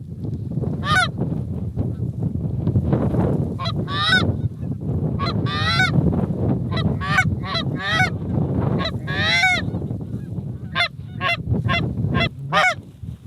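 Geese honking and clucking: a long, irregular series of sharp honks, one or two a second, over a steady low rumble.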